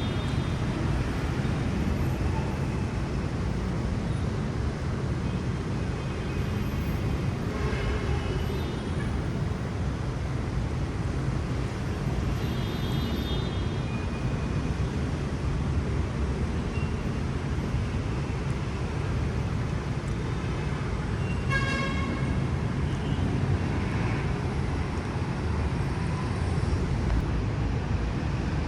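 Steady road-traffic rumble from a busy multi-lane avenue, with a few short vehicle horn toots, the clearest about three quarters of the way in.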